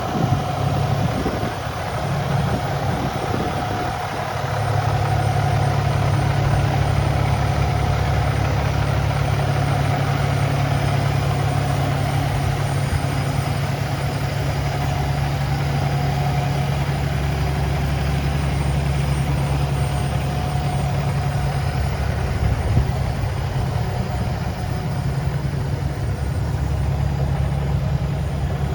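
Cummins ISX12 inline-six diesel in a 2013 Freightliner day cab truck idling steadily. Its low drone firms up and gets a little louder about four seconds in, then holds an even idle.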